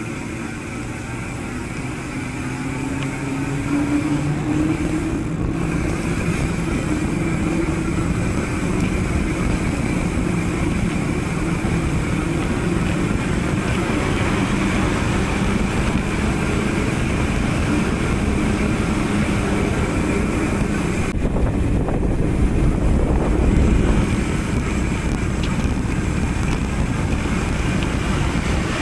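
A small motor vehicle's engine, rising in pitch over the first few seconds and then running fairly steadily, over wind rumble on the microphone that gets louder for a few seconds near the end.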